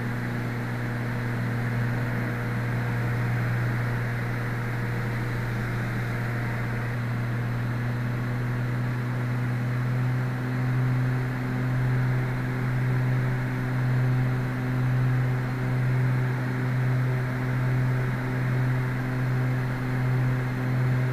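Twin Cessna's two piston engines and propellers droning steadily in the cockpit during the descent. About halfway through, a slow, regular pulsing of about one swell a second sets in: the beat of the two engines turning at slightly different rpm.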